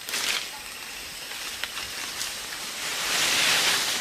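Leaves and branches rustling in rainforest foliage, with a brief rustle at the start and a louder, longer rustle near the end.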